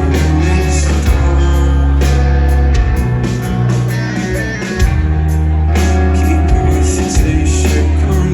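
Live rock band playing loud, heavy on the bass, with distorted guitars and drum hits. The sound dips briefly about halfway through, then comes back in full.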